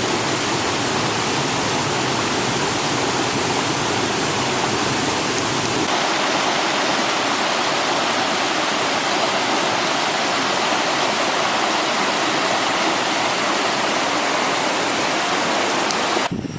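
Sen Monorom waterfall rushing steadily: a loud, even roar of falling water. The sound cuts off abruptly near the end.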